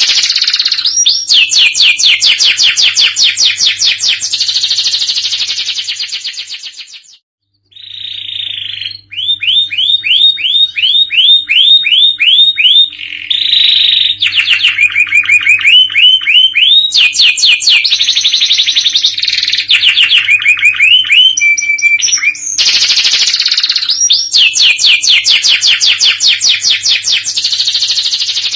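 Domestic canary singing a long run of fast rolling trills and rapidly repeated high notes, changing from one trill to the next, with a brief pause about seven seconds in. A faint steady low hum runs underneath.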